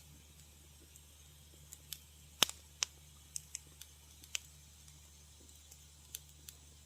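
Wood fire crackling: irregular sharp pops and snaps, the loudest about two and a half seconds in, over a faint steady low hum.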